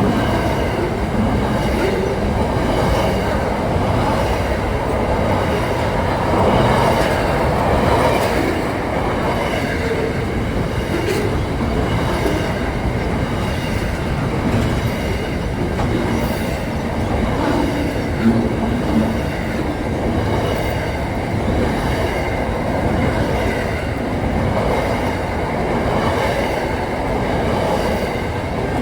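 Train running on rails, a steady loud rumble of wheels and track.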